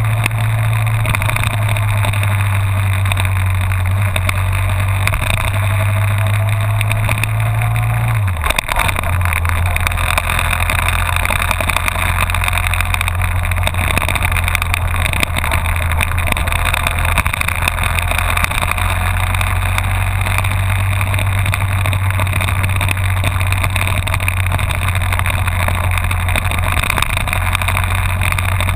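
Honda VFR1200F's V4 engine running steadily at road speed under a constant rush of wind and road noise. About eight seconds in, the engine note drops abruptly in pitch with a brief dip in loudness, then holds steady at the lower note.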